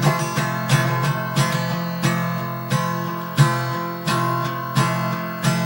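Acoustic guitar strummed in a steady rhythm, about one stroke a second, as a folk song's instrumental accompaniment between sung lines.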